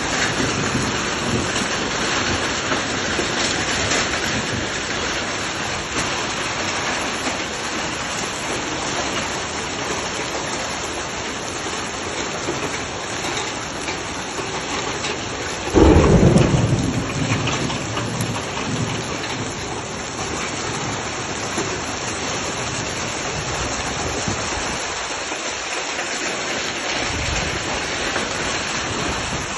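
Heavy rain mixed with hail pelting down in a steady dense hiss. A loud low rumble comes about halfway through.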